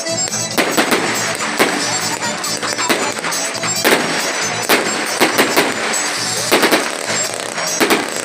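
Fireworks bangs going off in an irregular series of sharp cracks, several in quick succession around the middle and near the end, over loud festival music.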